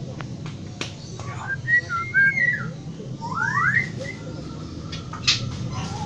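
A bird whistling: an arching whistle about two seconds in, then two quick rising whistles. A sharp knock comes about five seconds in.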